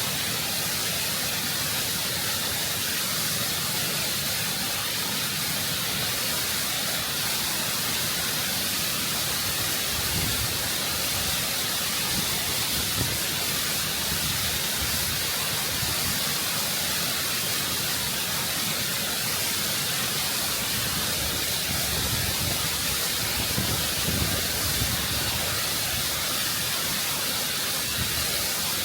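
Waterfall heard close up, water pouring over rock in a constant, full rush with a low rumble underneath.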